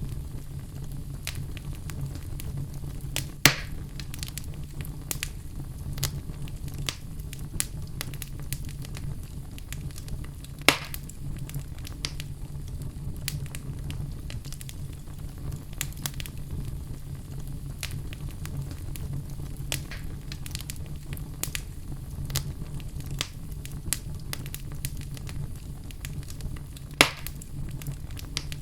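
A fire burning in a fireplace, crackling steadily over a low, even rumble. Three louder pops stand out: about three seconds in, about eleven seconds in, and near the end.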